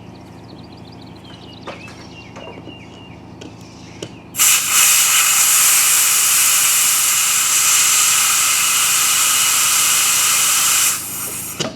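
Compressed air hissing steadily into a lawn mower tire through an air chuck for about six seconds, starting about four seconds in and cutting off sharply. Light clicks and knocks of fitting the chuck to the valve stem come before it.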